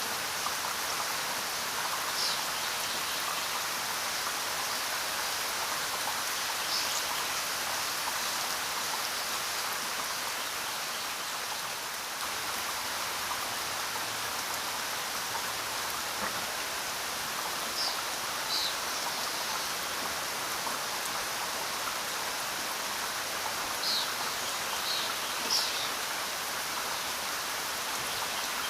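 Steady rainfall, an even hiss of rain falling on the ground, with a few short high-pitched sounds standing out over it now and then.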